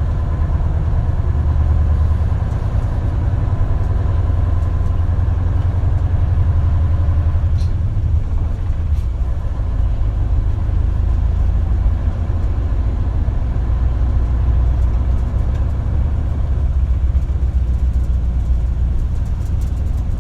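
Isuzu Erga (KL-LV280L1) city bus running, heard from inside the cabin: a steady low engine and drivetrain rumble with a faint hum above it.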